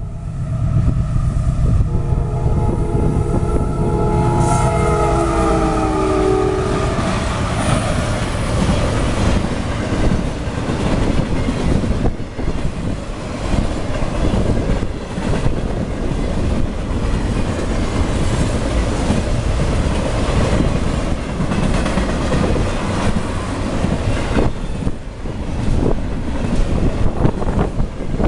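Locomotive horn of a fast CSX intermodal freight train blowing a multi-note chord for the first six seconds or so, its pitch dropping as it passes. Then the loud steady rumble and wheel clickety-clack of double-stack container and trailer cars rolling by close at speed.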